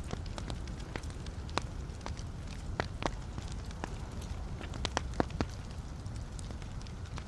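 Wood fire burning in a fireplace: a steady low rumble of flames with frequent irregular pops and crackles from the logs, a few sharper pops near the middle.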